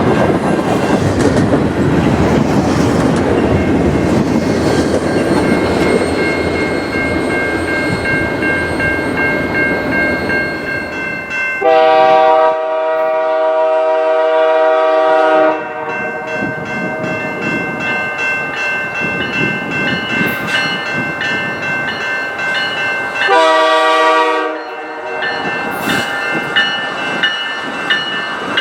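A train rumbling past on the rails. Then a locomotive's multi-chime air horn sounds a long blast of about four seconds, and later a short one.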